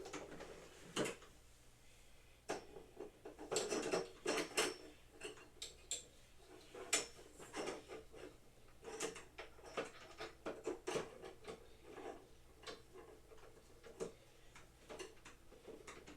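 Equipment parts being handled and fitted together by hand: irregular clicks, knocks and light rattles, with a brief flurry of handling a few seconds in.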